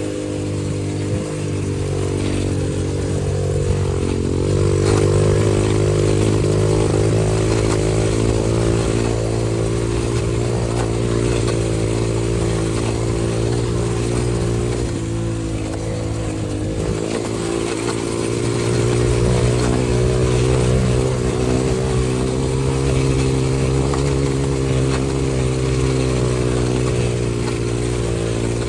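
XPro 125cc dirt bike's single-cylinder four-stroke engine running steadily under way, holding a fairly even pitch. Engine speed and loudness rise a little about five seconds in and again past the middle.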